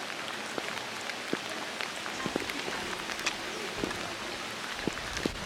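Steady rain falling, a constant hiss with individual drops ticking at irregular moments.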